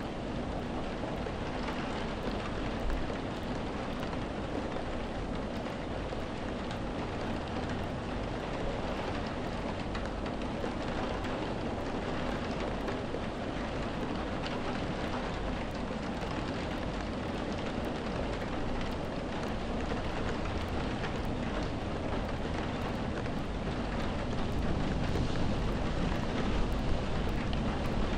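Steady, heavy rain falling: a dense hiss with many individual drop hits. It grows slightly louder near the end.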